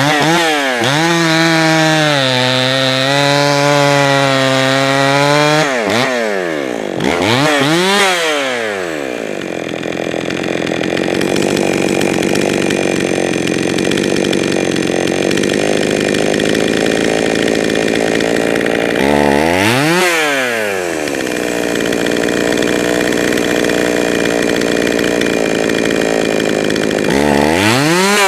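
Jonsered 525 two-stroke chainsaw running. It is held at high revs that waver slightly, then drops to a fast idle, and it is blipped up and back down twice before revving up again near the end. The saw is being tuned because it stumbles and hesitates off throttle.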